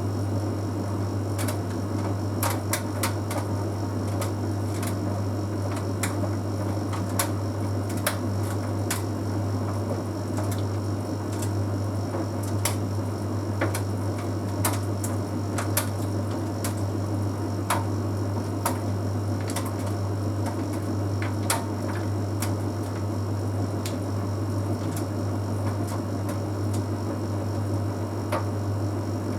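Bosch Series 6 heat pump tumble dryer running mid-cycle: a steady low hum and whir from the drum and compressor, with irregular light ticks and clicks scattered throughout.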